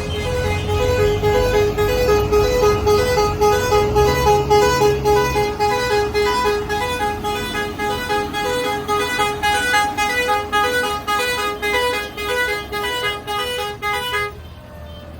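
A vehicle's musical horn playing a pulsing, repeating tune over a running engine, cutting off suddenly near the end while the engine carries on.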